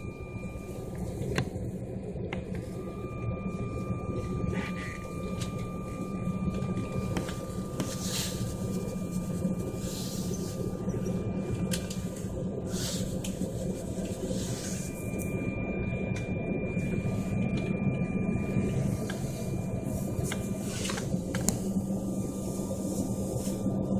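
Steady aircraft cabin noise: a low engine and ventilation drone with a thin steady whine above it, slowly growing louder, broken by a few clicks and knocks.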